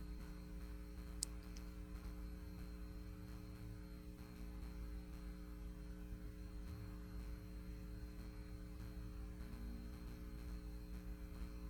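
Faint steady electrical hum, with one small click about a second in.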